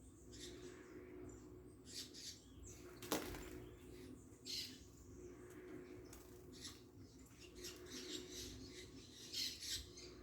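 Small birds giving short, high chirps at irregular intervals, with a single sharp click about three seconds in, over a faint steady low hum.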